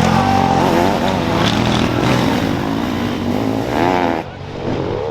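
Motocross race engines running and revving, their pitch wavering with the throttle. The sound dips sharply about four seconds in.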